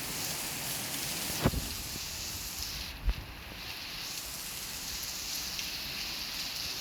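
Torrential rain falling steadily, a dense hiss, with two short low thumps about a second and a half and three seconds in.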